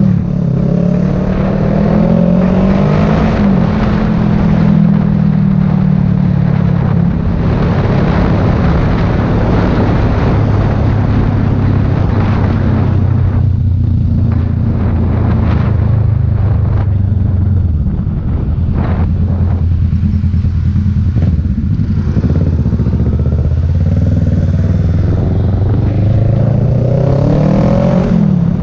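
Sport motorcycle engine under way, its pitch climbing over the first few seconds, then holding a steady cruise, easing off about two-thirds through and climbing again near the end. A constant rush of wind noise runs under it.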